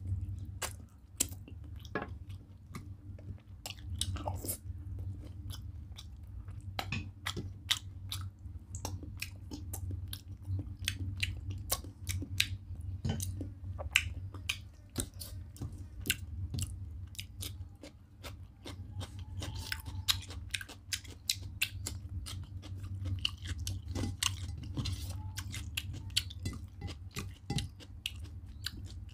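Close-miked chewing and wet mouth smacking of a person eating rice and chicken curry by hand, a rapid run of small sharp clicks, over a steady low hum.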